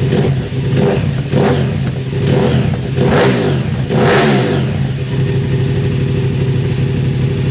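KTM 990 Super Duke's V-twin engine through a Yoshimura aftermarket exhaust, idling with several quick throttle blips. The largest blips come about three and four seconds in, each rising and falling back, before the engine settles into a steady idle.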